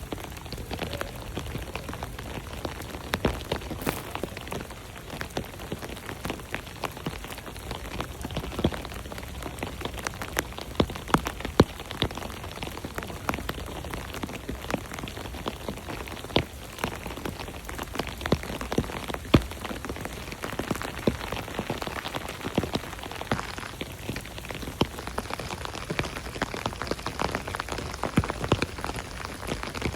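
Steady rain falling, with many sharp hits of individual drops striking close surfaces over an even hiss.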